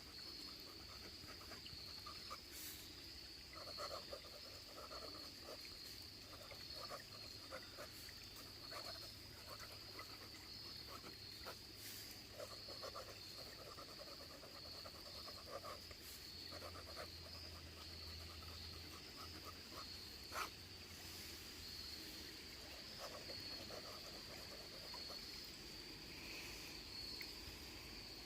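Steady high-pitched insect chorus, with irregular soft rustles and clicks close by and one sharper click about twenty seconds in.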